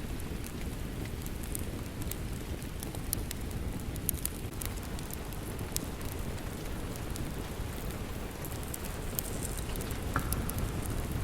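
Steady rain with a crackling wood fire, sharp pops and snaps scattered over a constant low rush.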